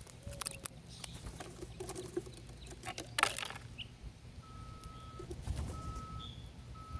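Scattered sharp clicks and fluttering from birds at a feeder. From about four and a half seconds in, a vehicle's reversing alarm beeps steadily about once a second, with a low engine rumble under it.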